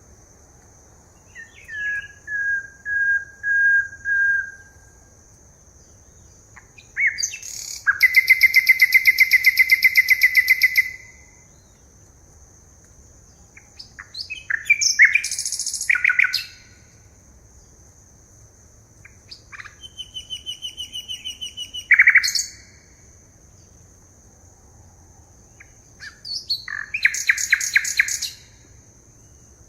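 Forest birds singing in turns: a run of about five short whistled notes, then several rapid trills and scattered chirps, with a loud single downward call a little after the middle. A steady high-pitched tone runs underneath.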